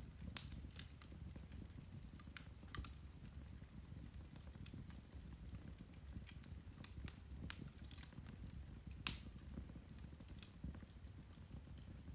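Turf (peat) fire crackling softly: scattered sharp pops and ticks over a low, steady rumble, with one louder pop about nine seconds in.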